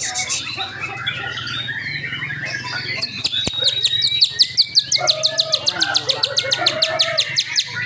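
White-rumped shamas (murai batu) singing in competition. About three seconds in, one breaks into a fast, rapid run of short, high, falling notes, several a second.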